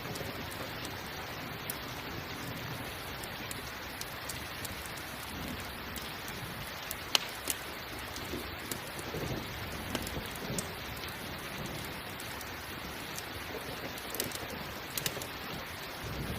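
Steady rain mixed with a crackling campfire: an even hiss of rain with sharp pops scattered through it, the loudest about seven seconds in.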